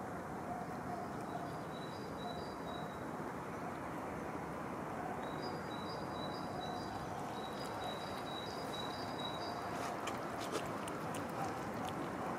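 A small bird chirps a run of short, high, repeated notes over a steady hum of street background noise. A few sharp clicks come close together near the end.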